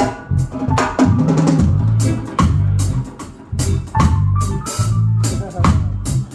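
Live band playing an instrumental groove: a drum kit strikes steadily over a deep bass line, with higher sustained notes above.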